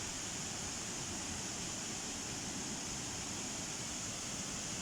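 Steady, even hiss-like noise with no distinct events, strongest in a high band.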